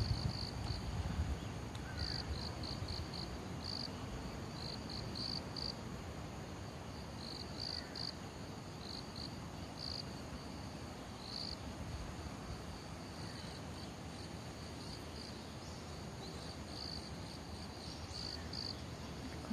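Crickets chirping: short trilled bursts at one high pitch, repeated irregularly every second or so.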